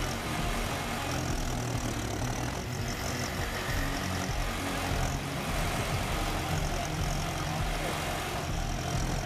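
An engine of heavy machinery running steadily, with a faint higher hiss coming and going every second or two.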